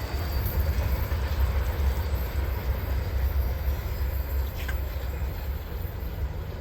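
Freight train cars rolling past on the track, a steady low rumble.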